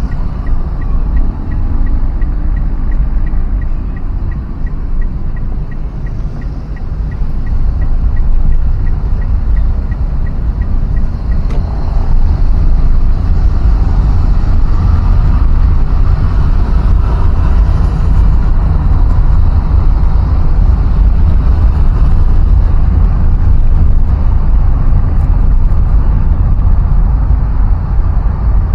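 Steady rumble of a vehicle on the road, with engine, tyre and wind noise dominated by low buffeting. A faint regular ticking sounds through the first ten seconds or so.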